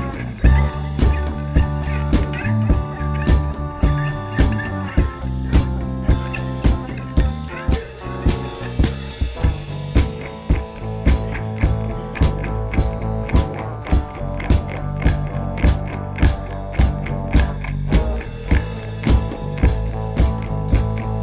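A band jamming an instrumental rock piece: drum kit playing a steady beat under sustained guitar and bass notes.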